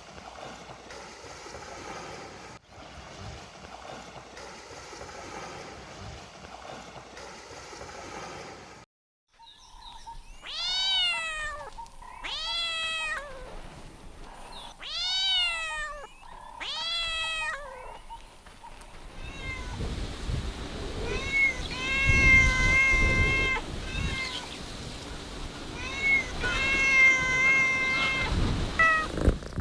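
Kittens meowing: faint at first, then four loud rising-and-falling meows about a second each, followed by longer, drawn-out meows near the end.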